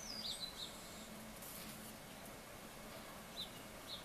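Faint bird chirps: a quick run of descending whistled calls near the start and two short chirps near the end, over a low steady background hum.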